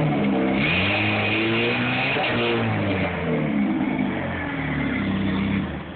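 Chevrolet S10's 2.2-litre four-cylinder engine being revved repeatedly through a Thrush muffler exhaust and cold air intake. Its pitch climbs and falls back about four times, and the engine drops away near the end.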